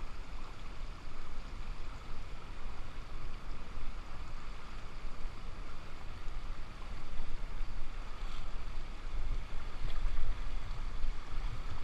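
Steady rushing of a waterfall, an even, unbroken noise with a low rumble underneath.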